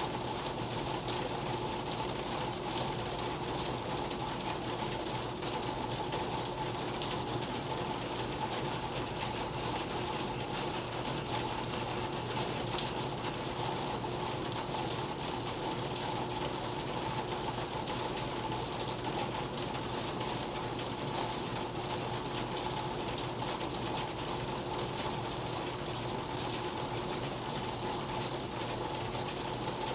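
Steady rain falling on and around a bamboo hut: an even hiss with a dense patter of small drop clicks.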